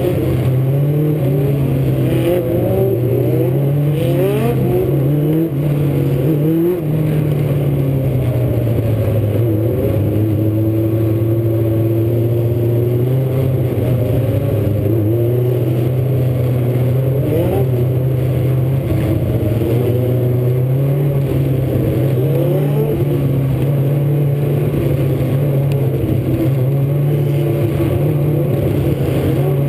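Several Legends race cars running on a short oval, their motorcycle-derived four-cylinder engines overlapping and repeatedly rising and falling in pitch as the cars accelerate and pass.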